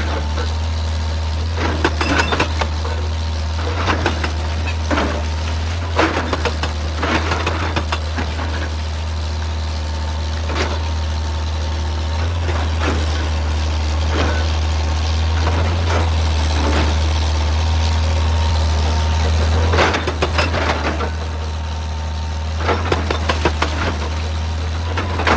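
Excavator's diesel engine running steadily, with irregular clatter of rock on rock and the bucket striking stone every second or two, busier near the end.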